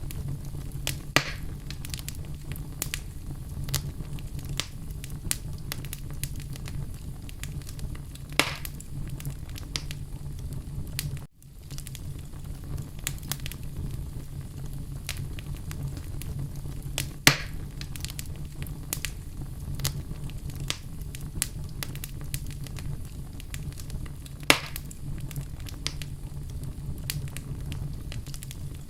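Wood fire burning in a fireplace: a steady low rumble of flames under frequent small crackles, with four louder pops spaced several seconds apart. The sound cuts out for an instant about a third of the way in.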